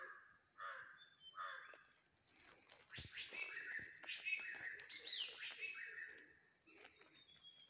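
Birds chirping and calling: three short calls in the first two seconds, then a busier run of chirps, brief clicks and a falling whistle through the middle.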